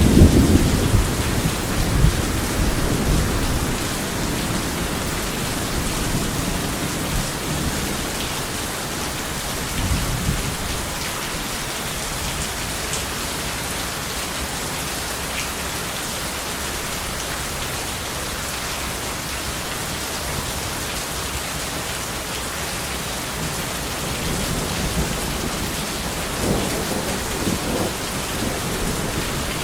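Steady heavy rain with rolling thunder. The thunder rumbles loudest at the start, fades by about four seconds in, comes again briefly around ten seconds and builds again near the end.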